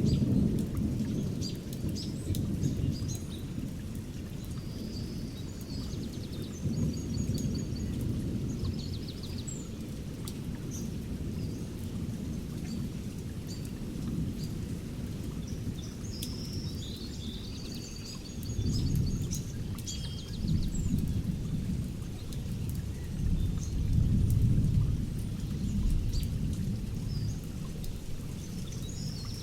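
Thunderstorm: low rolling thunder that swells several times, over steady rain with pattering drops, while birds chirp and trill throughout.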